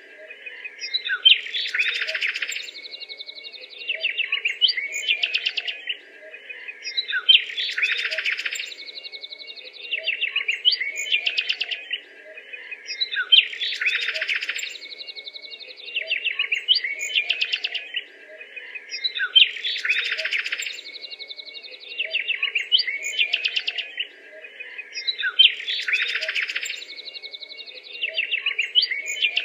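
Birdsong: a mix of chirps and trills, the same sequence repeating about every six seconds as a looped background recording.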